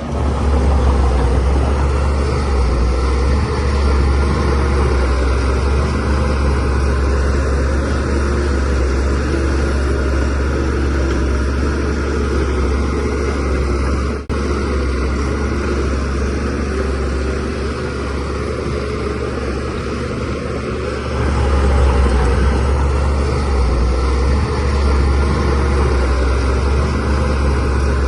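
DH17C3 bulldozer's diesel engine running steadily while the machine pushes soil. It drops out briefly near the middle and gets louder about two-thirds of the way through.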